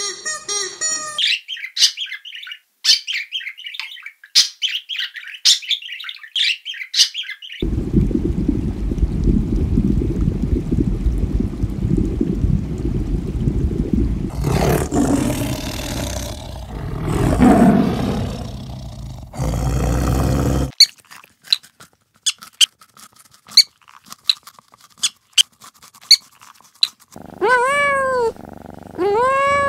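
A string of different animal sounds cut one after another: short high chirps, then a long low rough sound, then sparse clicks. Near the end comes a kitten mewing a few times, each mew rising and falling in pitch.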